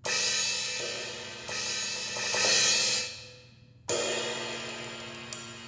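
Electronic cymbal sounds from the Donner DED-200 electric drum kit's module, triggered by striking its rubber-coated ride cymbal pad: light hits give a ping ride sound, harder hits a crash. A bright washy hit comes at once and another about 1.5 s in, dying away quickly just after 3 s. A fresh hit about 4 s in rings and slowly decays.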